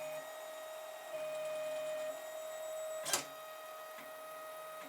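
Stepper motors of a Protomaker 3D printer running a dry test print with no filament: a steady whine comes and goes in spells of about a second as the axes move. About three seconds in there is one short, sharp zip, followed by quieter running with faint ticks.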